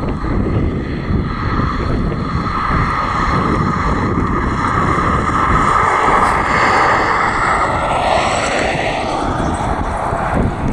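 Airplane engines passing by, swelling toward the middle and dropping in pitch about eight seconds in as the aircraft goes past, over wind buffeting the microphone.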